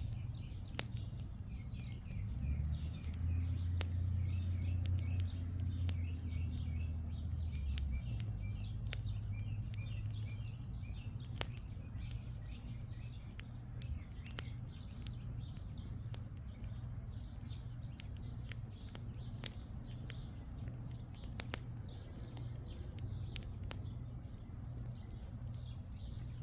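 Wood campfire crackling with scattered sharp pops, over a steady background of small birds chirping rapidly. A low hum swells for a few seconds between about two and eight seconds in.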